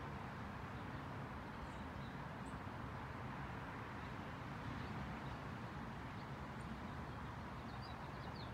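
Outdoor background: a steady low rumbling hiss with a few faint, short bird chirps now and then.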